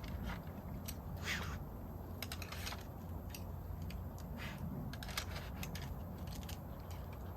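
Scattered light clicks and short rustles, as of things being handled, over a low steady hum.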